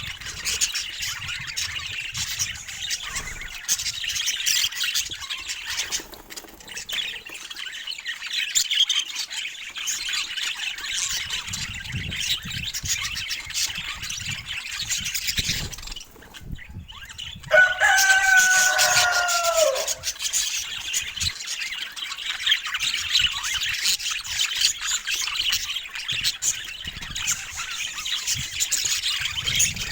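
A flock of budgerigars chattering and chirping continuously. Just past halfway the chatter breaks off briefly, and then comes a louder, lower, drawn-out call of about two seconds that falls slightly in pitch.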